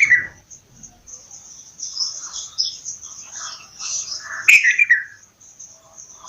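Bulbul calling in short chirps, with one louder falling call about four and a half seconds in, over a constant high-pitched twittering.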